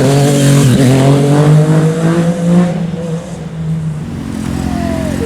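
Sport motorcycle engine accelerating hard, its pitch climbing with a brief drop about a second in, then fading out after about three seconds.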